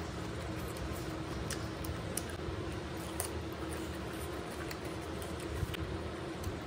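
Close-up eating sounds: chewing, with scattered faint mouth clicks, as rice and chicken are eaten by hand. Under them is a steady background hum.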